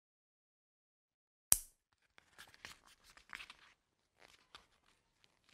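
A single sharp click about a second and a half in, followed by faint, scattered rustling and crackling handling noise.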